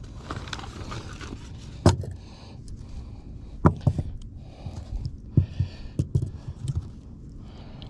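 A series of irregular dull knocks and thumps, the loudest about two seconds in, with a cluster of lighter ones later on.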